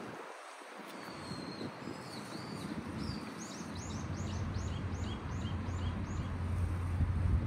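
A bird calling: wavering high whistles, then a run of short descending notes, about three a second. Low wind rumble on the microphone grows louder near the end.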